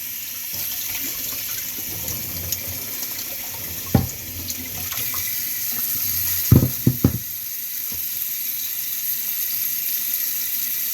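Tap water running steadily into a sink while mitre squid are gutted under it. There is a sharp knock about four seconds in and a quick run of three or four knocks at about six and a half to seven seconds.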